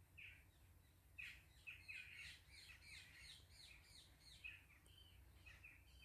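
Faint bird calls: a rapid series of short, falling chirps starting about a second in, over a low background rumble.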